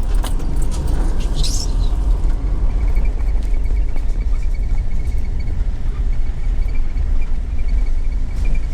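A vehicle driving slowly, with a steady low rumble of engine and road noise. A brief high chirp comes about one and a half seconds in.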